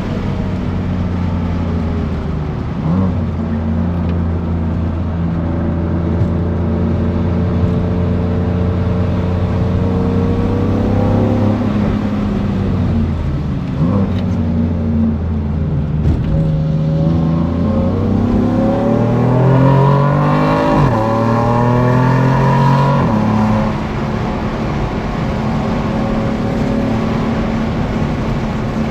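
BMW F82 M4's twin-turbo inline-six under hard acceleration on track, the engine note climbing through the revs and dropping back at gear changes. Near the middle it falls away, then revs up steeply and drops again before settling to a steady note.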